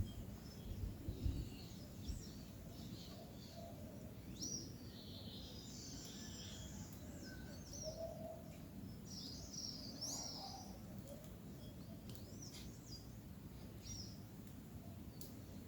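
Small birds chirping and calling at a seed feeder: many short, high chirps and quick rising and falling notes, busiest in the middle, over a faint low outdoor rumble.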